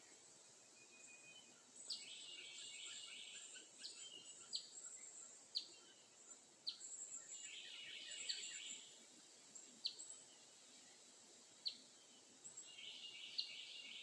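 Faint song of the mother bird. A dense warbled phrase comes three times, about five seconds apart, and short, sharp, falling chip notes sound between the phrases.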